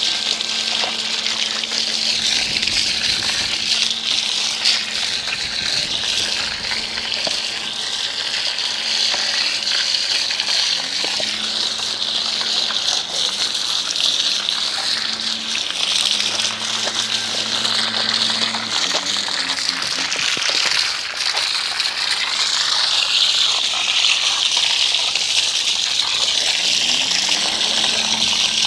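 Water spraying from a pressure washer wand, a steady hiss as the dirt bike is rinsed. A low hum from the washer's motor and pump starts and stops, gliding in pitch as the trigger is worked.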